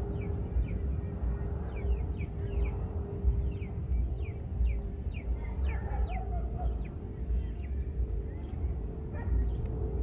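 Birds chirping, with quick falling chirps several times a second, over a steady low rumble.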